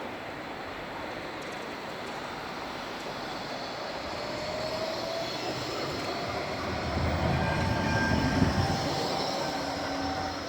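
Bombardier Flexity 2 light-rail tram running on the rails, getting louder toward about eight seconds in and then easing off. A short rising whine comes about four seconds in, and thin high steady tones sound later.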